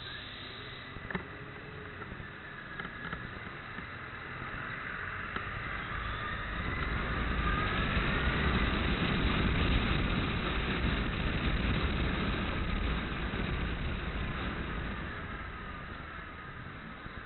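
A vehicle passing by, its rumble swelling to a peak about halfway through and fading again, with a whine that glides up and down in pitch.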